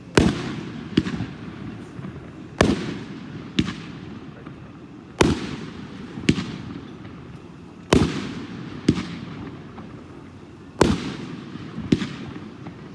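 500 gram consumer firework cake, the 'shotgun' from a firearm series, firing shot after shot: sharp bangs in pairs about a second apart, a new pair every two and a half seconds or so, each bang trailing off in an echoing rumble. Five pairs go off.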